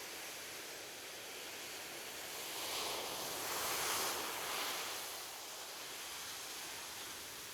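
Ocean waves on a beach: a steady wash of surf, with one wave swelling and breaking about three to four seconds in, then washing back.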